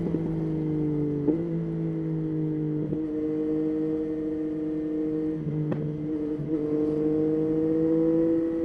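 Yamaha Tracer 9's 890 cc inline-three engine running at fairly steady revs. Its note steps in pitch a few times and rises slightly near the end.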